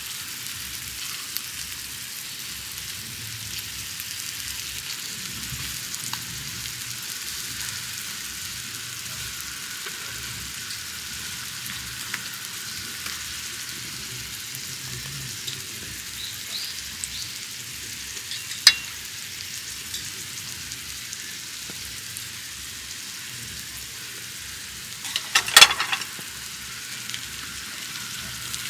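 Food frying on a hot griddle, a steady sizzle throughout, with one sharp click about two-thirds of the way in and a louder clatter of clicks near the end.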